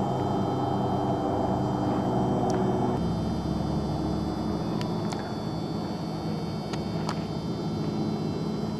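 A steady low mechanical drone with a few faint, brief high chirps.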